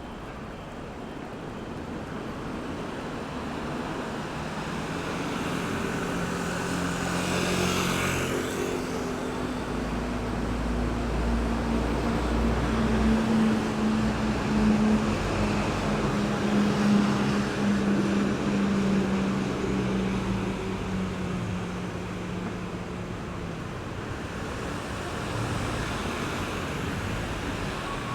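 Road traffic passing a roundabout: tyre and engine noise swells as a vehicle goes by about a third of the way in, then a heavy engine's deep rumble and low hum holds for about ten seconds before fading back into the traffic.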